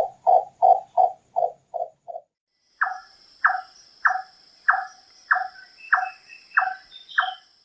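A nightjar's repeated knocking call notes, about three a second, slowing and fading out about two seconds in; after a short gap a second series of sharper notes, nearly two a second, over a steady high whine in the background.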